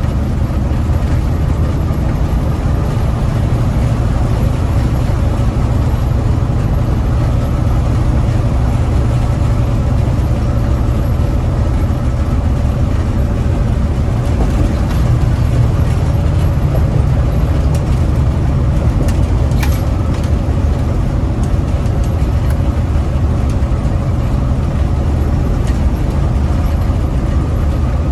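Loaded big rig truck driving, heard from inside the cab: a steady low drone of diesel engine and road noise, with a few faint ticks about two-thirds of the way through.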